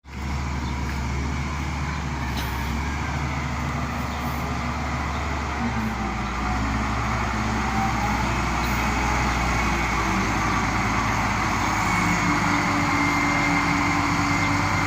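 Bulldozer's diesel engine running steadily with a deep hum, its pitch shifting a little partway through and growing slightly louder in the second half.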